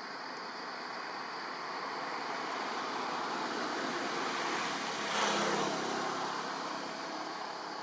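A motor vehicle passing by: a rushing noise that builds for several seconds, peaks about five seconds in with a faint engine hum, then fades away.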